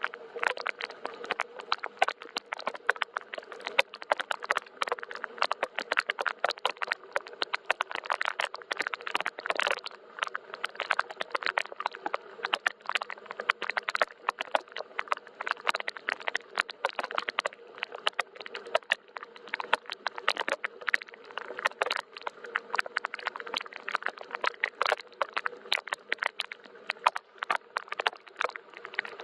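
Steady rain falling, with many separate drops ticking irregularly and close together over a soft hiss.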